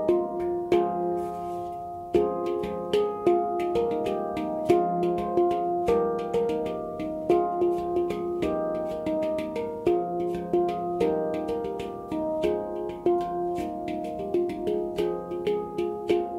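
Handpan tuned to F minor, played with the hands: a steady flow of struck, ringing notes, several a second, overlapping into a melody.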